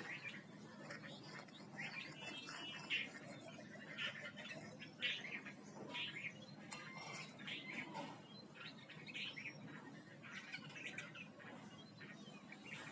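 Small birds chirping, with many short, quick chirps and an occasional brief whistled call.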